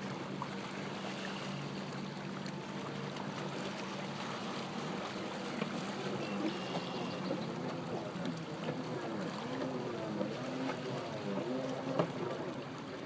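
Stand-up jet ski engine running over a wash of water noise. It holds a steady hum at first, then rises and falls in pitch from about halfway through.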